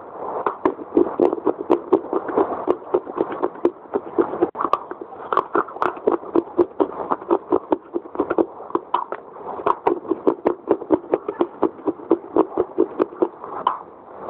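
Fast, crunchy chewing of a hard, dry, crumbly block, close to a clip-on microphone: a steady run of sharp crunches about three to four a second, with fresh bites taken along the way.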